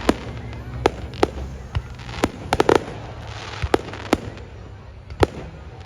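Fireworks going off in a display, irregular sharp bangs about every half second with a quick cluster of reports a little before halfway, over a low rumble.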